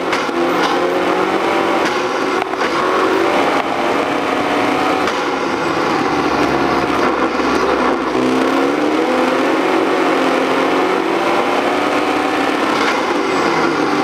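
Ford Focus ST's turbocharged 2.0-litre four-cylinder engine under hard acceleration, heard from inside the cabin, its pitch climbing and dropping again and again as the throttle is worked through the corners, over steady road and tyre noise.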